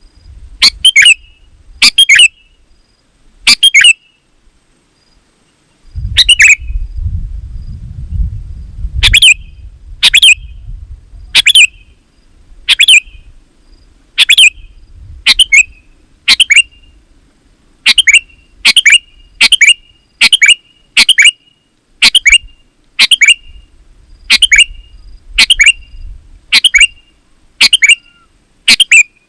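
Sooty-headed bulbul (kutilang) calling over and over in short, loud chirpy phrases, roughly one a second, with a few seconds' pause near the start. A low rumble underlies the calls for a few seconds early on.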